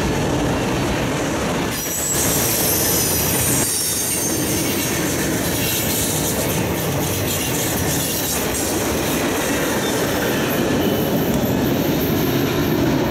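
Freight train cars rolling past on the rails, a steady heavy rumble of wheels on track, with a high metallic wheel squeal setting in about two seconds in.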